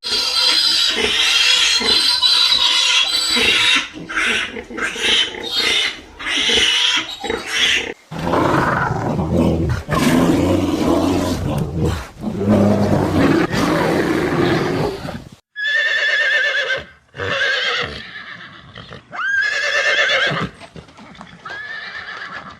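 A run of loud animal calls from several different animals in turn: high calls at first, lower and fuller ones from about a third of the way in, and short, high, wavering calls near the end.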